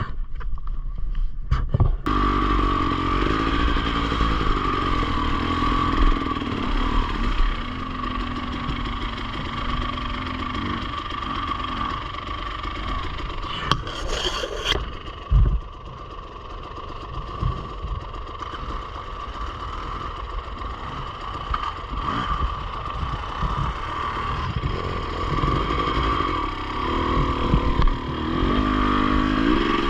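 Enduro motorcycle engine starting about two seconds in and then running steadily, with the engine speed rising and falling near the end.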